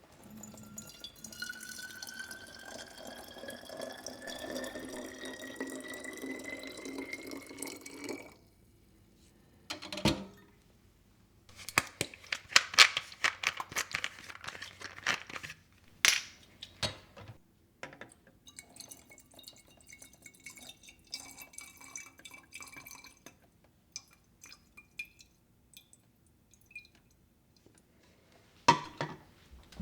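Water running from a kitchen tap into a container for about eight seconds, its pitch rising steadily as the container fills, then cut off. After that come scattered knocks and clinks of dishes being handled.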